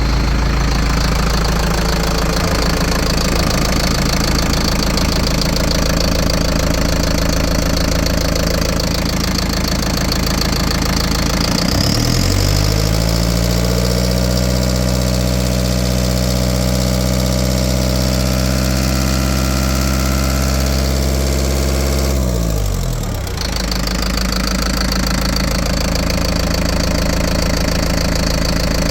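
Mercedes MBE 904 4.3-litre four-cylinder diesel engine running at idle. About twelve seconds in it is revved up, held at a higher steady speed for about ten seconds, then drops back to idle.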